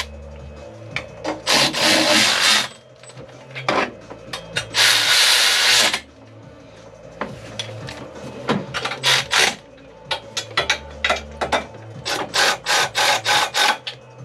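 Ratchet spanner being worked on engine bolts: two long rasping runs of ratcheting, then a string of short, quick back-and-forth strokes as the bolts are run down.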